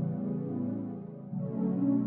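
Ambient techno synthesizer pads holding a soft sustained chord, which gives way to another chord about a second and a half in.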